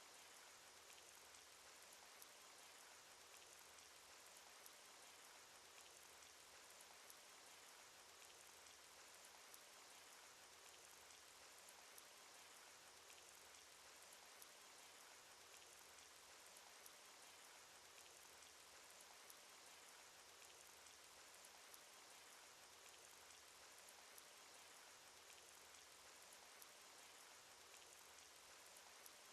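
Faint, steady rain sound effect: an even hiss of falling rain with many small raindrop ticks scattered through it.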